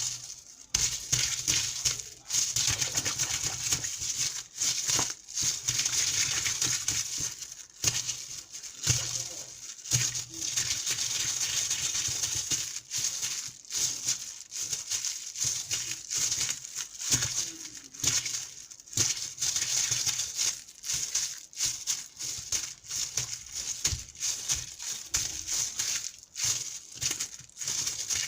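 Water splashing, an uneven hiss that comes in spurts with short breaks.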